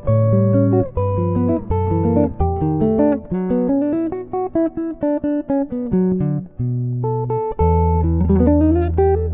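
Solo jazz guitar on a D'Angelico NYS-1 archtop, recorded dry through its pickup with no reverb. Chord-melody playing with held bass notes under moving single-note lines, and a quick upward run of notes near the end.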